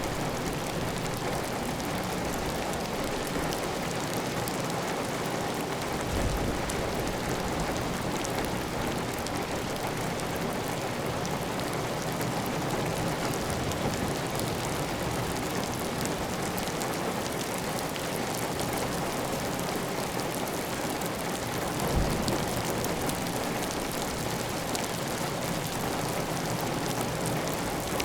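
Heavy, steady rain on a tiled roof, with water running off the roof edge. Two brief low thuds come through the rain, one about six seconds in and another about three-quarters of the way through.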